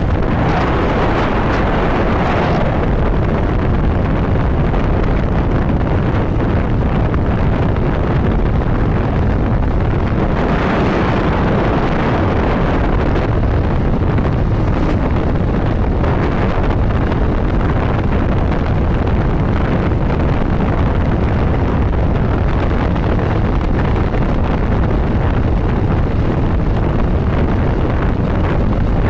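Wind rushing over the rider's microphone on a moving motorcycle, over the motorcycle's steady running at road speed. A louder rushing swell comes about a second in and again about ten seconds in.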